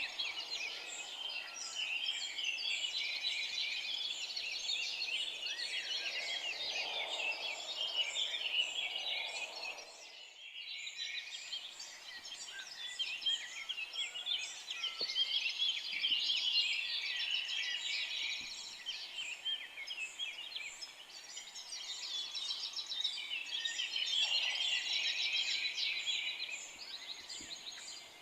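Dense chorus of many forest songbirds chirping and trilling at once, overlapping without a break except for a brief drop about ten seconds in.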